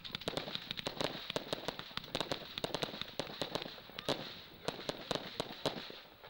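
Fireworks crackling: a rapid, irregular stream of sharp cracks and pops over a steady hiss, easing off just before the end.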